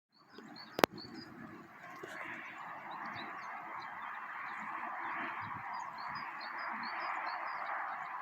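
Birds chirping in short high calls over a steady rushing background noise, with a single sharp click just under a second in.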